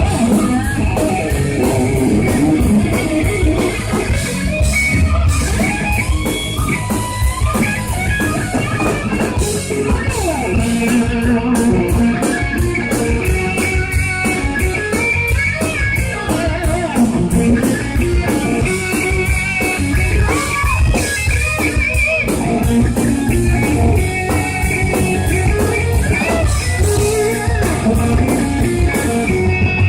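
Hard rock band playing live, with electric guitar out front over a drum kit.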